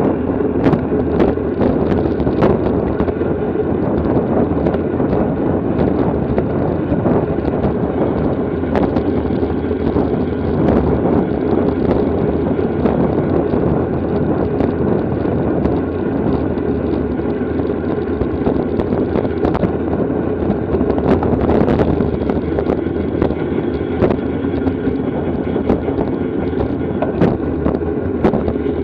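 Steady wind rush over the microphone and road noise from a bicycle moving at racing speed, with scattered short clicks and knocks.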